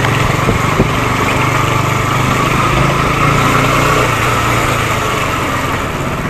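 Motorcycle engine running steadily, with an even rush of noise over it.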